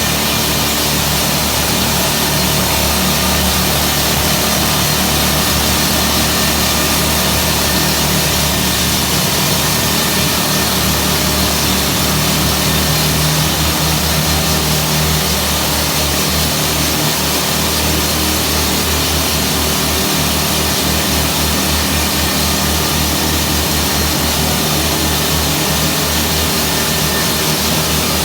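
Jackhammer drilling in a tunnel: a continuous loud mechanical clatter over a steady engine drone.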